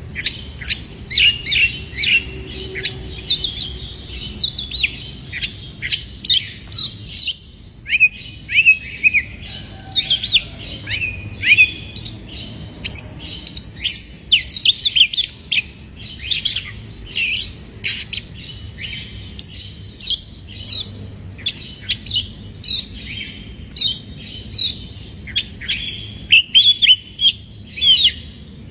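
Oriental magpie-robin (kacer) singing a fast, unbroken run of short, clear whistled notes and quick pitch sweeps, a song the keepers take as a sign of a bird in breeding condition.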